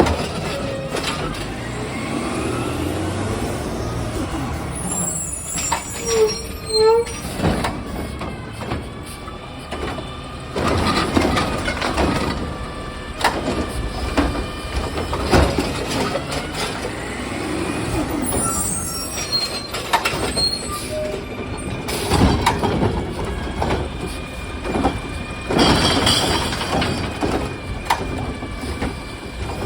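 Recycling truck working its route: the diesel engine runs steadily, with air-brake hisses and repeated bangs and clatters.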